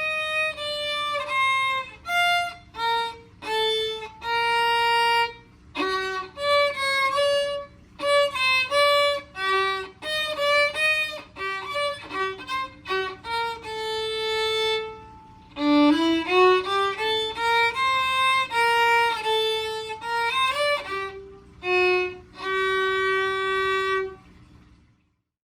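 Solo violin playing a melody of short and held bowed notes. It ends on a long held note, then stops near the end.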